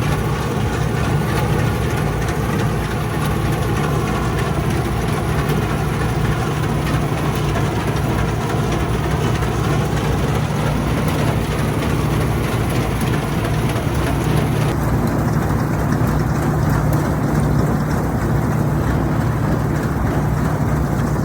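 Old Bizon combine harvester running steadily, a deep continuous engine drone with the hum of its working machinery. About fifteen seconds in, the higher hiss abruptly drops away.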